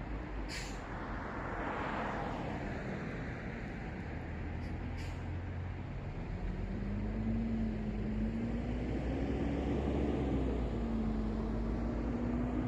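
City street traffic: a steady low rumble of vehicles, with a car passing about two seconds in and brief sharp hisses near the start and about five seconds in. From about six seconds, a vehicle engine tone rises and falls in pitch.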